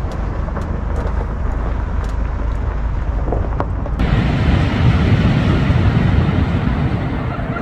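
Birch firewood burning in a wood stove, giving a few sharp crackles over a steady low rushing noise. About four seconds in, the rushing noise suddenly grows louder and fuller.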